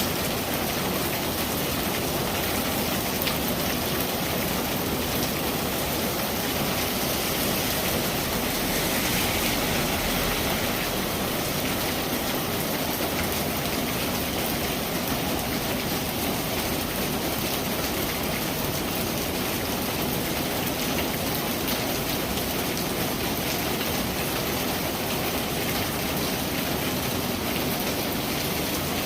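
Steady, heavy rain falling on surfaces, an even dense hiss with a constant level throughout.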